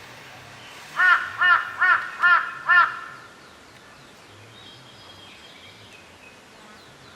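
A crow cawing five times in quick succession, about two calls a second.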